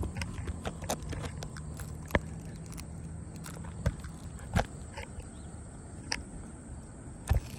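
Irregular sharp knocks and clicks, a few of them louder, over a low steady hum that fades out about halfway through.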